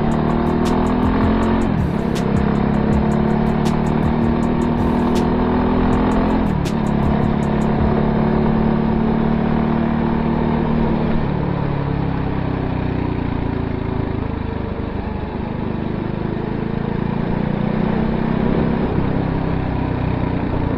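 Voge 300R's single-cylinder engine pulling through the gears: its pitch climbs, drops at upshifts about two seconds and six seconds in, then holds steadier and eases off in the second half.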